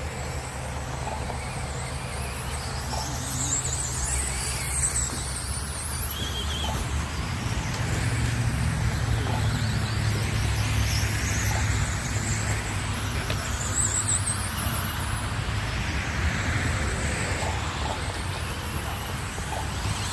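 Radio-controlled race cars lapping an oval track. Their motors make a high whine that rises and falls as the cars pass, over a steady low hum.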